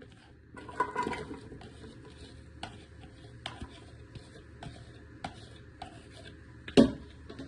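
Chopped onions and peppers going into a big pan of hot olive oil, with a steady faint hiss and scattered clicks and taps of food and utensils against the pan, and one louder knock near the end.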